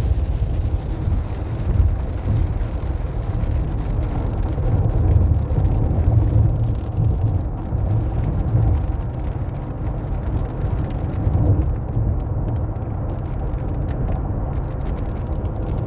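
Steady low rumble of a car driving, heard from inside the cabin, with light rain on the car.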